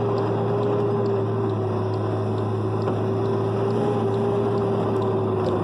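Steady engine drone of a vehicle under way, with a held tone that sags slightly in pitch and a wash of road and rain noise. Faint, evenly spaced ticks sound about twice a second.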